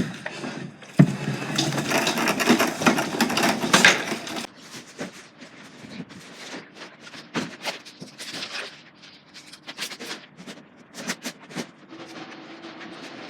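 Goods being unloaded by hand from a lorry: a dense stretch of scraping and clattering in the first few seconds, then scattered knocks and clicks as items are moved and set down.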